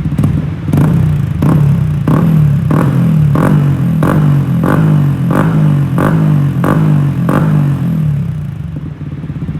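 Yamaha MT-15's 155 cc single-cylinder engine blipped through its exhaust: about eleven quick throttle blips in a steady rhythm, each dropping straight back, before it settles to idle near the end.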